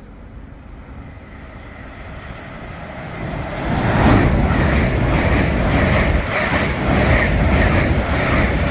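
LNER Azuma Class 800 train approaching and passing through a station. The rumble builds from about three seconds in to a loud steady rush, with a regular clatter of the wheels about twice a second.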